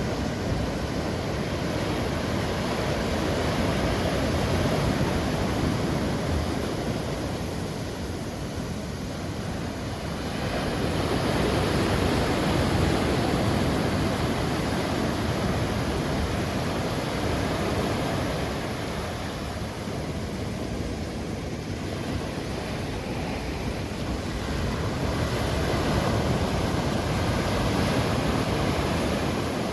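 Heavy typhoon surf breaking on a beach: a continuous rush of waves that swells and eases every several seconds.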